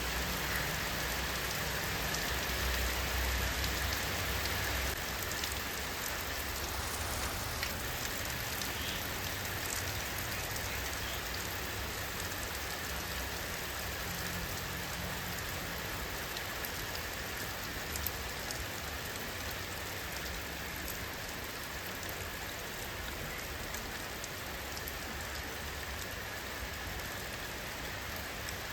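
Steady rainfall: an even hiss of rain on surfaces with scattered sharper drop sounds, easing slightly about five seconds in.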